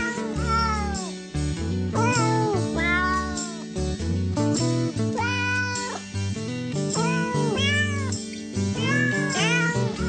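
Cat meowing over and over, a dozen or so rising-and-falling meows with one held about a second near the middle, over music with steady bass notes.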